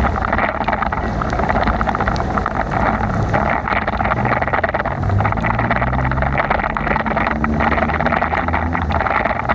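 Steady road noise from a bicycle ride in heavy rain: tyres hissing through water on wet pavement, with wind on the microphone. A faint motor-vehicle engine hum runs through the middle.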